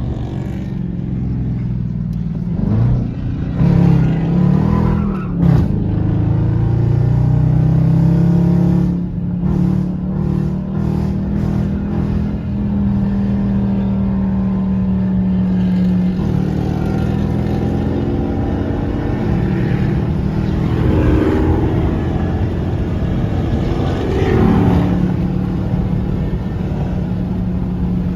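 Dodge Charger R/T's V8 engine and exhaust while driving: it revs up hard a few seconds in with the pitch climbing and dropping, settles to a steady cruise, then pulls harder again later on.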